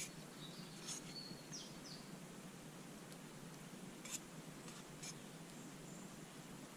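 Faint woodland ambience: a small bird gives a few short, falling chirps in the first two seconds, over a steady background hiss. A handful of sharp clicks come through, the loudest about four seconds in.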